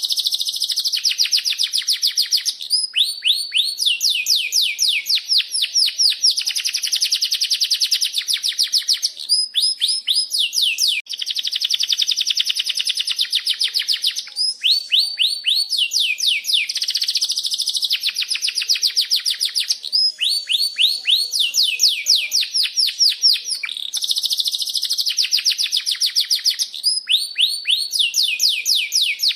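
Domestic canary singing a long unbroken song of fast rolling trills and repeated high chirping notes, each run lasting a second or two before switching to another.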